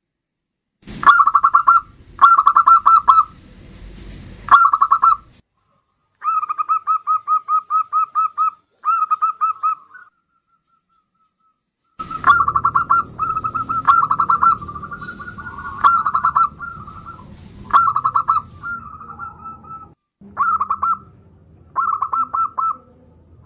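Zebra dove (perkutut) cooing: a dozen or so phrases of rapid pulsed coos, with brief silent gaps between some of them.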